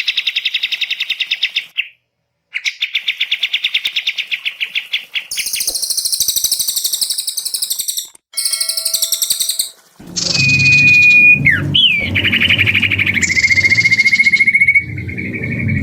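Songbirds singing tutor-style song: bursts of rapid rattling trills, a stretch of very high chattering about halfway, then a clear whistled note and a long rapid trill over a low background rumble in the second half.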